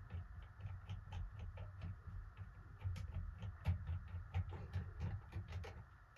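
Irregular small clicks and rattles of hands working on a ceiling fan's pull chain switch and wiring, the loudest about two-thirds of the way in, over a steady low hum.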